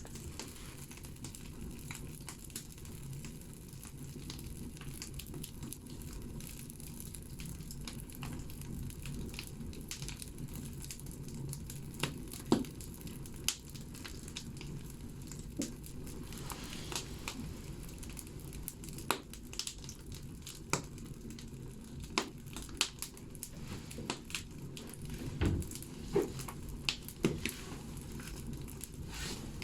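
Firewood burning in a wood stove: a steady low rush of the fire with sharp, irregular crackles and pops from the logs. The pops come more often in the second half, and the loudest is about twelve seconds in.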